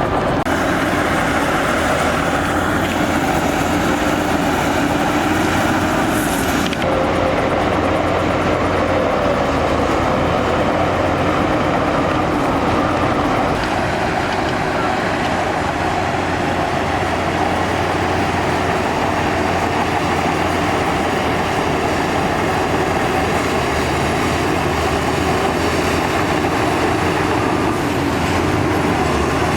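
Heavy earthmoving machinery at work: a steady, loud diesel engine drone from bulldozer and dump truck engines running under load.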